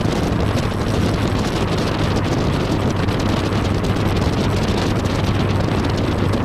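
Tiger sports car's engine running hard at a steady pitch, with wind buffeting the microphone.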